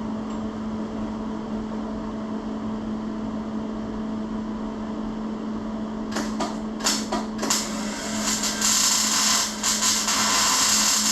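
A steady low hum, then a few knocks from about six seconds in. From about eight seconds a power tool runs on steel with a loud, harsh hiss.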